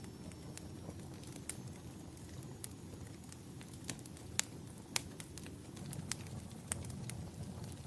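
Wood fire crackling in a fireplace: scattered sharp pops and snaps at an uneven pace, the two loudest about four and five seconds in, over a steady low rumble.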